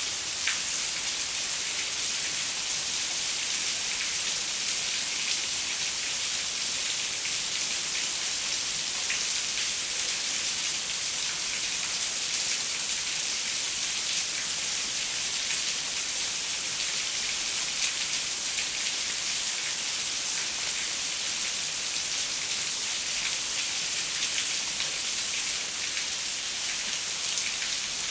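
Steady rain falling on a window, an even hiss with many small drop taps scattered through it.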